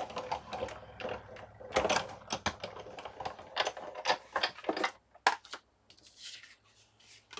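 Sizzix Big Shot die-cutting machine being hand-cranked, the platform and cutting plates clicking and creaking through the rollers for about five seconds, then fainter handling sounds.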